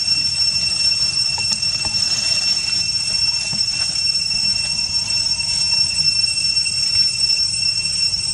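A steady, high-pitched insect drone, typical of a cicada chorus, holding one whining pitch with a hiss above it and a low rumble beneath.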